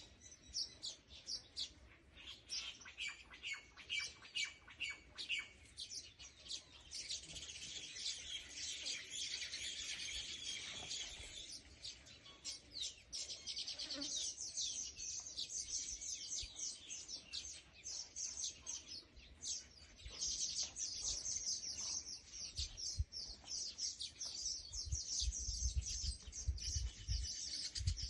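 Small birds chirping rapidly and continuously, several calls overlapping in a dense high twittering. Low rumbling thumps come in near the end.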